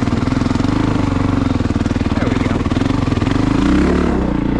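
Honda CRF450RX dirt bike's 450 cc single-cylinder four-stroke engine running under way, with the revs shifting near the end.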